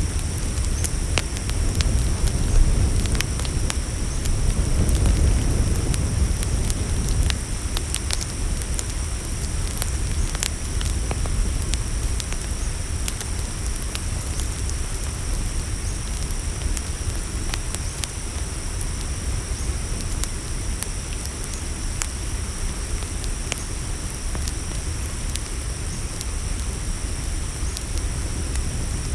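Campfire crackling, with scattered sharp pops over a low steady rumble that eases after about seven seconds. Crickets keep up a steady high chirring.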